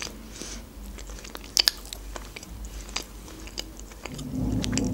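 Close-miked chewing of a soft chocolate-glazed ring pastry with chocolate filling: scattered sharp mouth clicks, then a low hum near the end.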